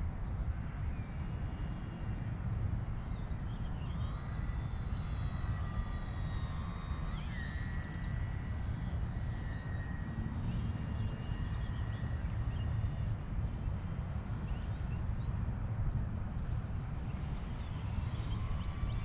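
Electric RC model airplane's brushless motor and propeller whining in flight, the thin tones rising and falling in pitch as the throttle and distance change, over a steady low rumble.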